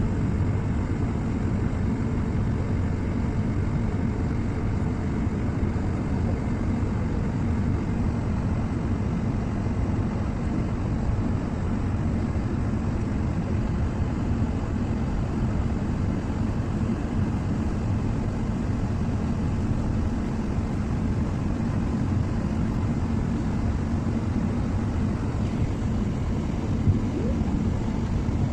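Jet airliner cabin noise in flight: a steady, even rush of engines and airflow, heaviest in the low range.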